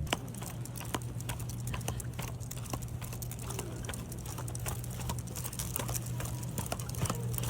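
A dog's claws clicking and pattering irregularly on a hard floor, over a steady low hum.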